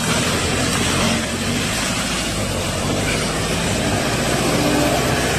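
Vehicle engine running steadily at fairly even revs.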